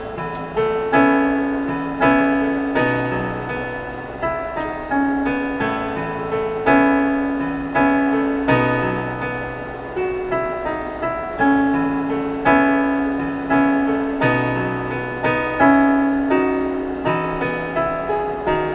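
Piano music: a slow, repeating figure of struck notes, each fading after it is played.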